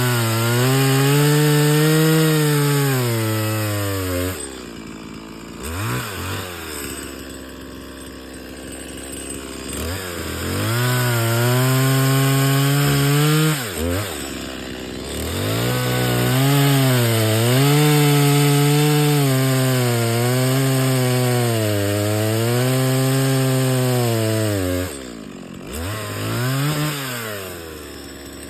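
Chainsaw cutting through blown-down trees: the engine runs at high revs, its pitch sagging and recovering as the chain works through the wood. Between cuts it drops back to idle with short blips of the throttle, then revs up again.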